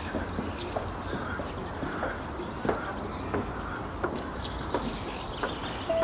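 Small wild birds chirping, with short high calls every second or two and scattered sharp ticks, over a low steady background rumble.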